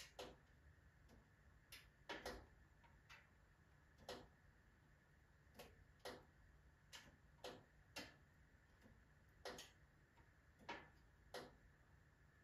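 Firewood burning in a full wood-burning stove, crackling faintly with sharp, irregular pops, about one a second.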